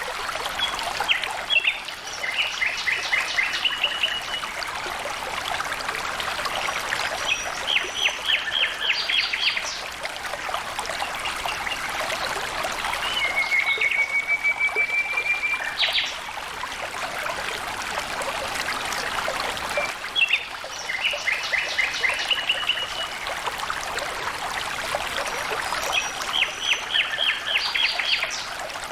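Flowing stream water trickling steadily, with a bird singing short phrases of rapid high notes every few seconds, one of them a quick trill.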